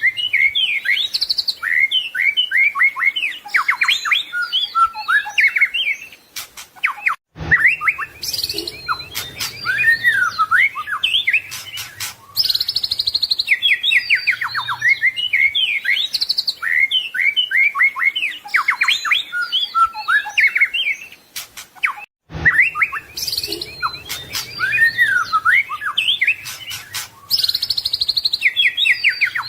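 White-rumped shama (murai batu) singing a fast, varied song of rich whistles and chirps, full of mimicked phrases. The song breaks off abruptly for a moment about 7 and 22 seconds in.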